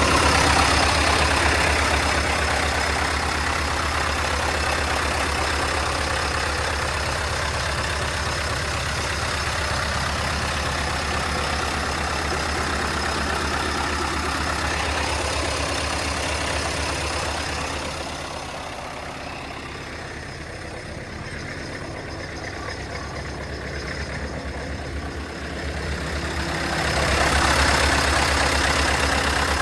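Scania S 580 truck's 16-litre V8 diesel idling steadily, growing quieter about two-thirds of the way through and louder again near the end.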